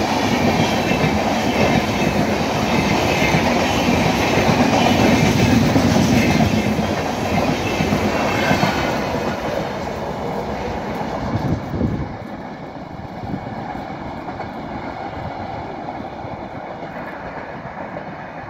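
Passenger express train's coaches running past, wheels clattering over the rail joints; the noise drops off about twelve seconds in as the last coach goes by and then fades as the train draws away.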